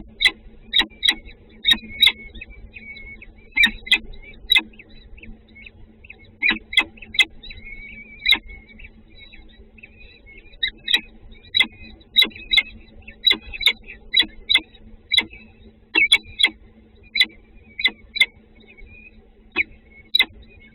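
Small birds at a nest chirping: many short, sharp chirps at irregular intervals with softer twittering between them, over a steady low hum.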